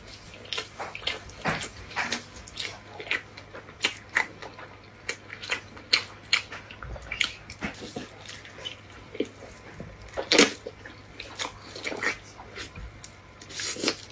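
Close-miked mouth sounds of eating spicy chili-oil noodle rolls: wet chewing, lip smacks and slurping, an irregular run of sticky clicks with one louder smack about ten seconds in.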